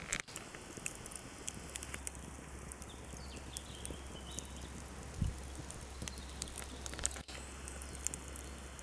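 Wood fire burning, crackling with irregular sharp pops and snaps.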